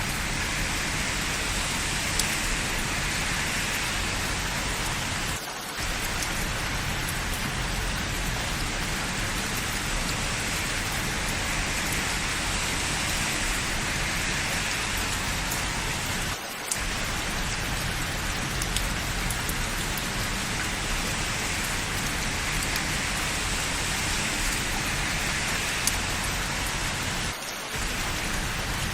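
Steady, heavy rain falling on hard surfaces, a dense even hiss with raindrop patter. It briefly dips three times, about eleven seconds apart.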